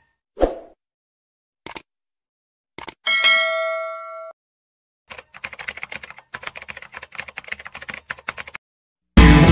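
Sound effects for an animated subscribe button: a few single clicks, then a notification-bell ding that rings for about a second and cuts off. Then about three seconds of rapid keyboard-typing clicks as text types out, and loud guitar music starts at the very end.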